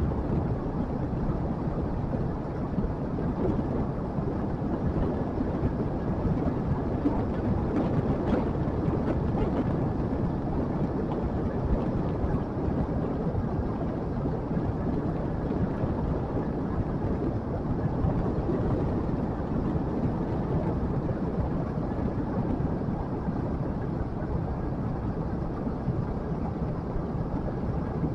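Motorcycle engine running steadily under way, mixed with wind and road noise.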